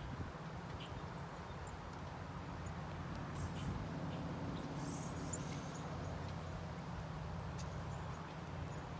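Scattered short, high bird chips and ticks at a bird feeder over a steady low rumble.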